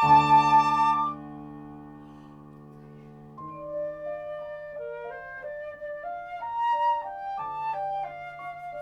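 Flute and alto saxophone duo playing a slow, lyrical piece over a recorded accompaniment. A loud held note ends about a second in. After a quieter stretch with a low held tone, a flute melody comes in.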